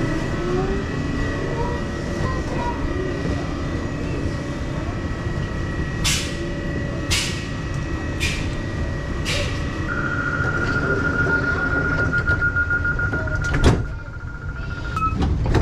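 Train station ambience with a train's doors closing: steady rumble and distant voices, four short air hisses, then a rapid warning beep for several seconds and a sharp clunk as the doors shut, after which the surroundings go quieter.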